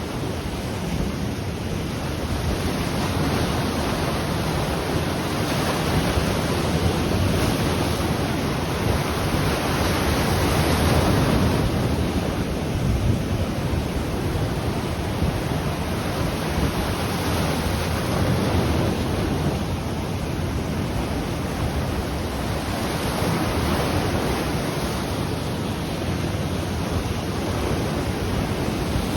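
Ocean waves washing onto the shore in a steady rush of surf that swells and eases, with wind buffeting the microphone.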